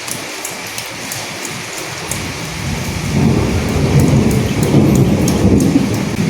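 Steady rain with sharp drop impacts throughout. About two seconds in, a low rolling rumble of thunder builds, is loudest over the second half, and begins to fade near the end.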